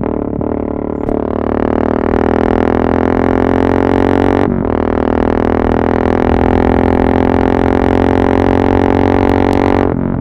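Yamaha MT-03 660's single-cylinder engine running loud through an exhaust with the dB-killer removed, held at steady revs under throttle. It breaks off briefly about four and a half seconds in and picks up again at the same pitch. The revs fall away just before the end.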